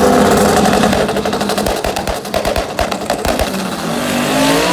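A race car engine breaks into a fast string of sharp exhaust pops and bangs, like a car held on a rev limiter, for about two seconds in the middle. It then revs up again with a rising pitch near the end.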